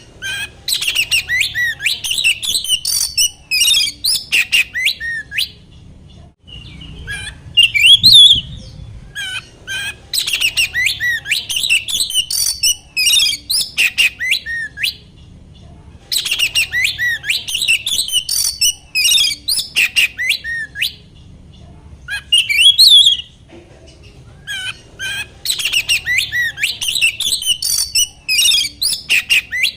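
Oriental magpie-robin (kacer) singing: phrases of rapid, varied whistles and chattering notes lasting a second to about five seconds, separated by short pauses. It is a provoking song (pancingan) played to stir a caged magpie-robin into singing.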